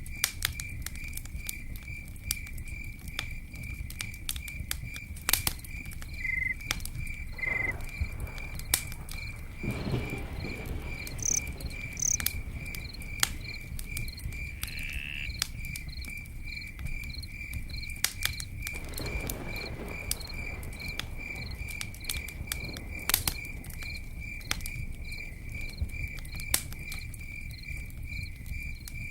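Campfire crackling, with scattered sharp pops over a low steady rush. Behind it a cricket chirps in a fast, even, unbroken pulse.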